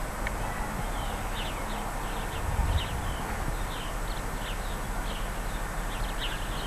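Small birds chirping repeatedly over a steady hiss, with a low thump about two and a half seconds in.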